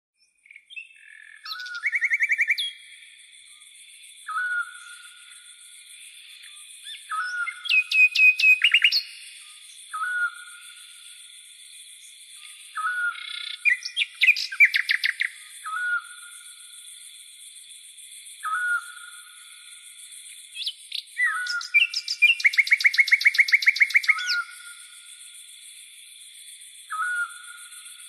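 A songbird singing at night in separate phrases: a short whistled note every two to three seconds, broken by loud, fast trills of rapidly repeated notes. Under it runs the steady, high chirring of crickets.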